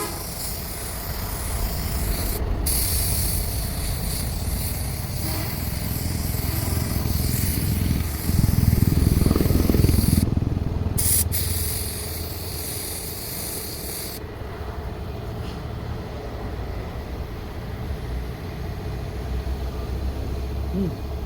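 Air spray gun hissing in long bursts that start and stop sharply, with a short pause about two and a half seconds in and another about ten seconds in; the hissing stops after about fourteen seconds. A steady low rumble of machinery runs underneath throughout and is loudest around the middle.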